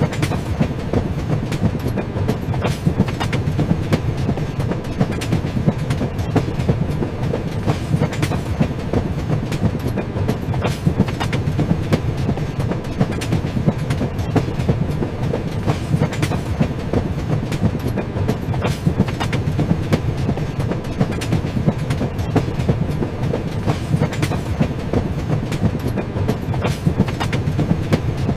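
Moving train cars rumbling along the track, with steady wheel clicks and clacks over the rail joints.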